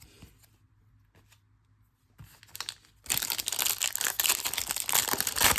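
A trading card pack's foil wrapper being torn open and crinkled, starting about three seconds in as a loud, dense crackle after a few faint handling clicks.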